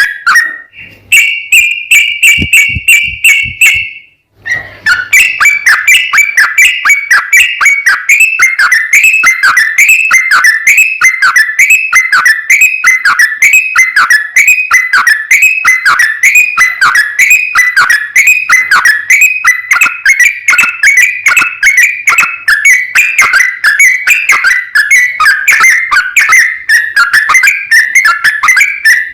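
Yellow-vented bulbul (trucukan) singing its rapid 'ropel' chatter: a fast, unbroken run of repeated whistled notes, with a higher, more even passage and a brief break about four seconds in.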